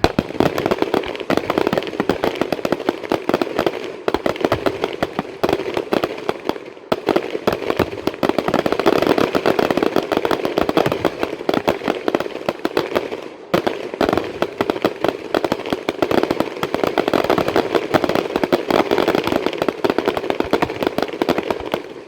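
Fireworks crackling: a dense, unbroken run of sharp pops, many a second, like a long string of firecrackers, which starts suddenly.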